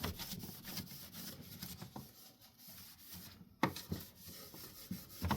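Cloth rubbing back and forth over the dusty face of a wooden veneered ceiling-fan blade in quick scratchy strokes. Two sharper knocks come about three and a half seconds in and near the end.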